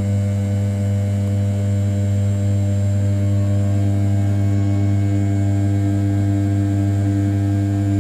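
Spindle of an RZ420 CNC router (500 W brushless, about 6000 rpm) with its end mill roughing the outside profile of an A7075 aluminium block. It makes a steady, unbroken hum of several stacked tones, strongest at the lowest pitch.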